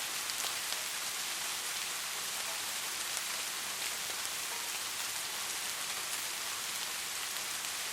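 Steady soft rain falling, an even hiss with scattered small drop ticks.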